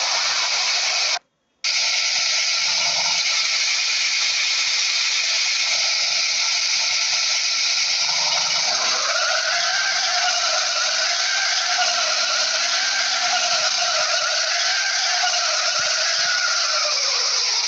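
A small motor running with a steady hiss, dropping out briefly about a second in. About halfway through a whine joins in, wavering up and down, and slides lower near the end.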